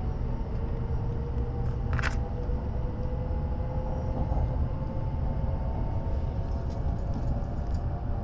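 Running noise of a W7 series Shinkansen heard from inside a passenger car: a steady low rumble with a few faint steady tones above it. A brief sharp hiss about two seconds in.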